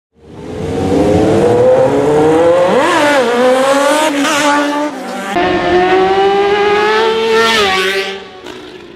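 Superbike engine accelerating hard, its pitch climbing through the gears with quick dips at the shifts about three and four seconds in, then a second rising run that falls away near the end.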